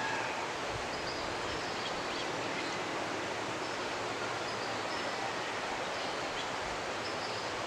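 Jimenoa mountain river running, a steady rush of water, with a few faint bird chirps now and then.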